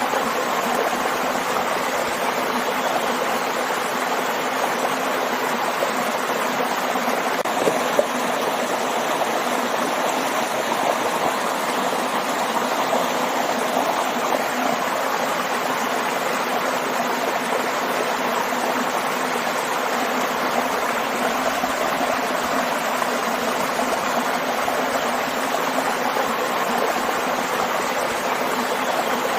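Stream water running and splashing over rocks, a steady rushing noise, with one brief splash or tick about eight seconds in.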